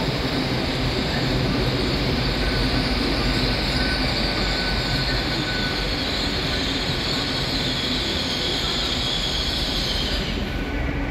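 TransPennine Express Class 802 multiple unit running past the platform: a steady rumble and rush of wheels on rail with a high hiss, and a faint wheel squeal for a couple of seconds in the middle. The high hiss falls away a little after ten seconds in as the last coaches go by.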